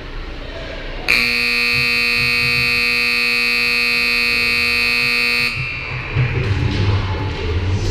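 Ice-rink horn sounding one steady, loud blast of about four seconds, starting about a second in and cutting off sharply.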